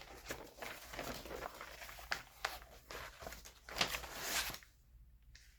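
Paper rustling and crinkling in irregular bursts as glossy magazine pages are turned and handled, dying away about a second before the end.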